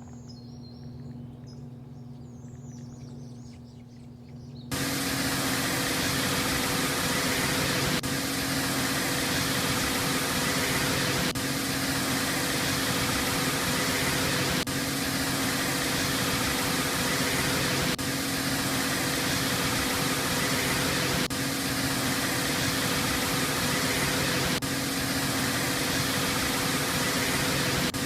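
Birds chirping over a low steady hum. About five seconds in, car wash machinery starts suddenly with a loud, steady hiss and hum.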